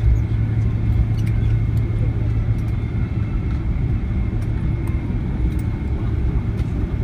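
Cabin noise of a Boeing 767-300 on the ground just after landing: a steady low rumble of engines and wheels, with a faint steady high whine and a few light ticks.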